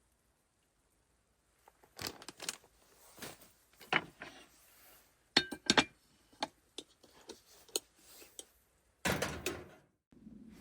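Cookware and utensils being handled: scattered clicks, taps and knocks, starting after about two seconds of silence, with a longer scraping, rustling burst near the end.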